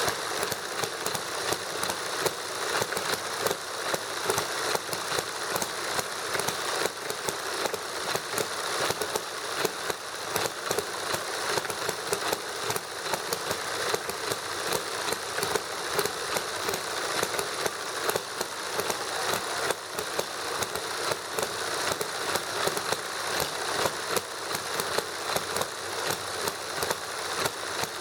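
Toy model hit-and-miss gasoline engine running on the bench, its light, tinny mechanical clatter broken by quick sharp firing ticks several times a second, alongside a model Stirling engine.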